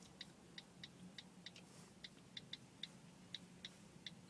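Faint, light, irregular tapping and clicking of a seagull on the car's windshield, about three or four clicks a second, heard from inside the car over a low steady hum.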